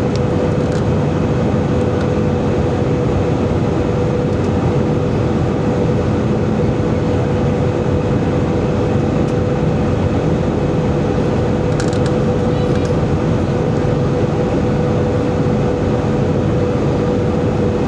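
Airbus A320 cabin noise in flight: a loud, steady rush of airflow and engine noise with a constant hum, and a couple of faint clicks about twelve seconds in.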